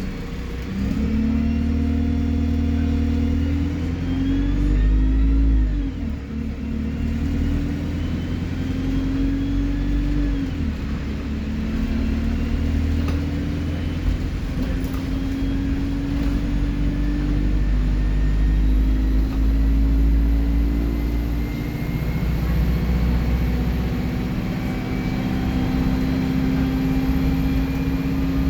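Alexander Dennis Enviro 200 bus engine pulling under load, its pitch climbing and dropping back a few times, with a thin high turbo whistle. The whistle rises again a little over halfway through and then holds.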